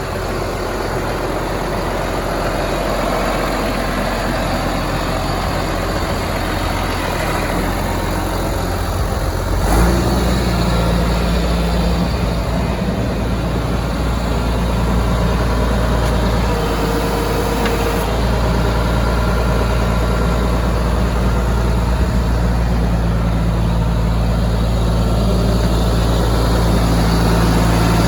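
Landini Landpower 135 tractor's diesel engine running steadily, idling. About ten seconds in there is a knock, and the low engine hum then grows stronger and steadier.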